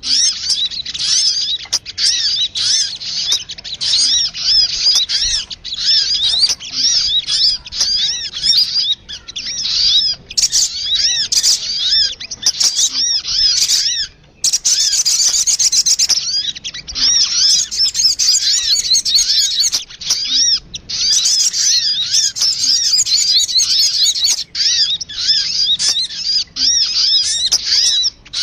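Sogun lure call: dense, continuous chattering of small birds, many rapid high arched chirps overlapping, with a brief pause about fourteen seconds in. It is a trapping lure recording, played to draw wild sogun in, and noisy as the title says.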